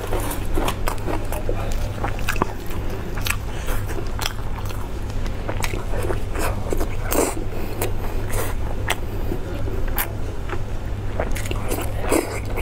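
Close-miked biting and chewing of lamb intestine stuffed with lamb meat: many short mouth clicks and smacks at irregular intervals, over a steady low hum.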